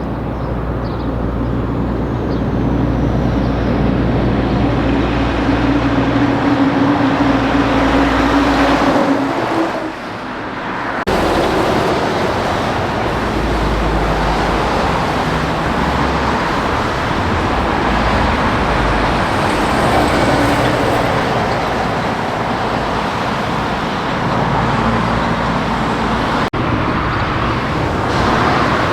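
Heavy trucks on a highway, with a deep engine note and tyre noise. The engine tone holds for several seconds and then fades, and the sound changes abruptly twice, once about a third of the way in and once near the end.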